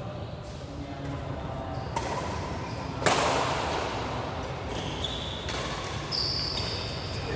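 Badminton court sounds in a sports hall: a knock, then a sudden burst of noise about three seconds in, followed by short high squeaks like shoes on the court floor, over a steady low rumble.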